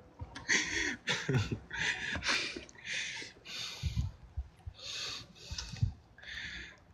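A person breathing hard and fast close to the microphone, about ten loud breaths in and out, out of breath from tumbling. Two dull low thumps come about four and six seconds in.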